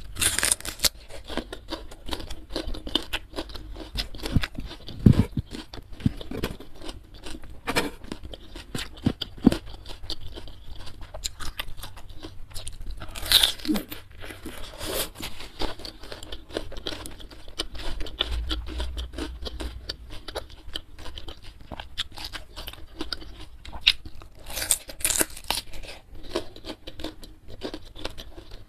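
Close-up eating sounds: crisp bites and crunchy chewing of a raw green vegetable, with wet mouth sounds. The sharpest bites come just after the start, around the middle and near the end.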